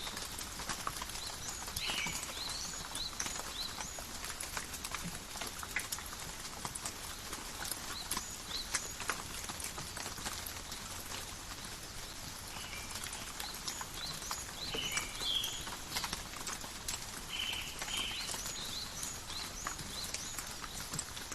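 Light steady rain in a forest: a soft hiss with many separate drops ticking. Small groups of short chirping animal calls come about two seconds in and again from about thirteen seconds in.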